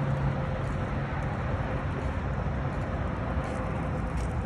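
Road traffic noise: a steady rushing hum with a low engine drone that fades about a second in.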